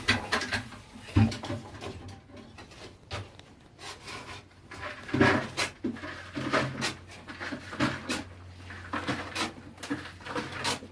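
Irregular knocks, clatters and scrapes of manual digging and handling gear in an excavation shaft.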